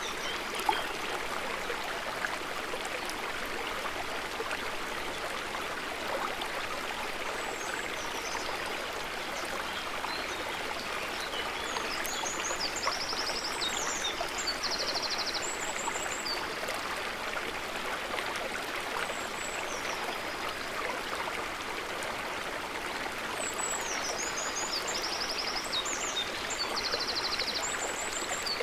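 A river running steadily. High, quick chirps and trills come twice, about halfway and near the end.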